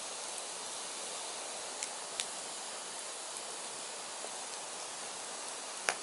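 Firewood burning with a steady hiss, broken by a few sharp crackles and pops, the loudest one near the end.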